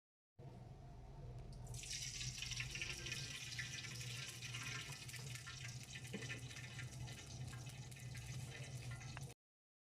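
Water running from a tap, starting about a second and a half in, over a steady low hum; the sound cuts off suddenly near the end.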